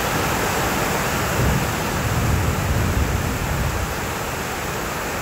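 Heavy rain pouring down onto a flooded street in a thunderstorm: a steady, dense hiss of rain with a deeper rumble underneath that swells and fades.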